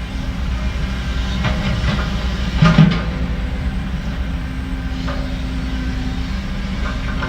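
Heavy diesel construction machinery running steadily, with several metallic clanks about two to three seconds in, the loudest near three seconds.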